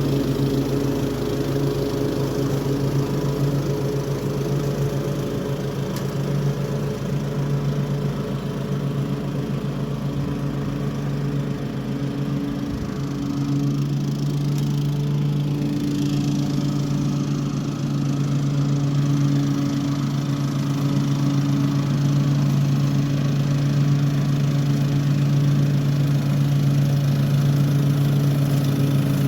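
Toro HDX 30-inch self-propelled walk-behind mower with a mulching kit, its single-cylinder engine running steadily at cutting speed while mowing grass.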